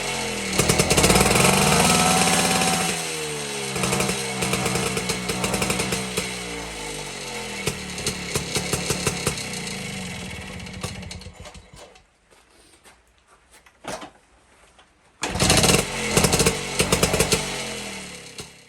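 1952 BSA D1 Bantam 123 cc two-stroke single-cylinder engine running on a test rig: it revs up about a second in and drops back, runs on, then dies away about two-thirds through. After a few seconds of quiet it is suddenly running again, and fades near the end.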